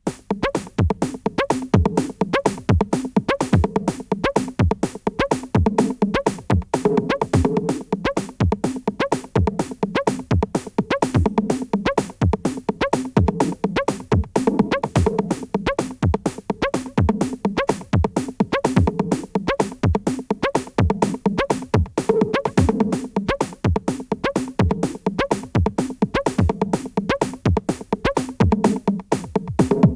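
Electronic techno track: a drum-machine kick about twice a second under dense clicking percussion and sustained synthesizer tones.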